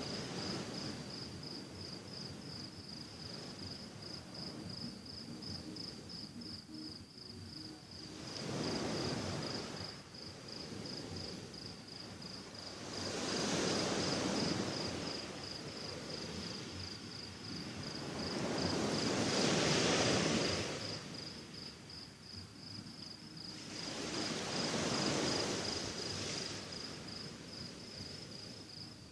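Sea waves washing onto the shore, four surges that swell and fade about every five to six seconds, over a cricket chirping steadily in even, rapid pulses.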